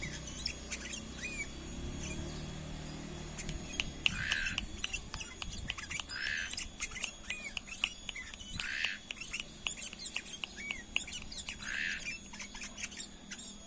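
Kutilang emas, a bulbul, calling: a run of short chirps, joined from about four seconds in by a louder harsh call repeated every two to three seconds, five times in all.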